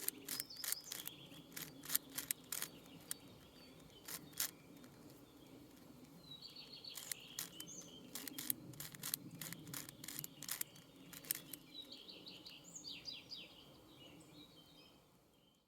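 Sharp, irregular clicks of a plastic 6x6 puzzle cube's layers being turned by hand, coming in bursts, with birds chirping and a short trill in the background. It all fades out just before the end.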